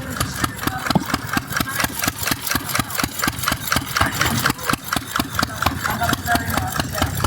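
Vintage stationary engine running at a steady idle, firing in an even rhythm of about seven beats a second, with voices faintly behind.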